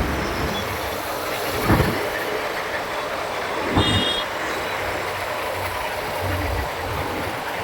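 Steady engine and road noise of a motorbike ride in traffic, with a short high beep a little under four seconds in.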